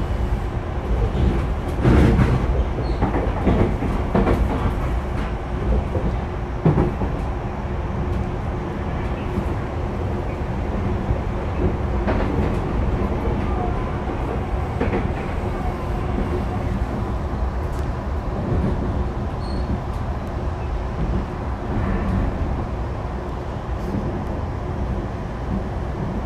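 Tokyu 5050 series commuter train (set 5177F) running between stations, heard from inside the car: a steady low rumble of wheels on rail with the air conditioning on, and a few sharper knocks, the loudest about two seconds in and again near seven seconds.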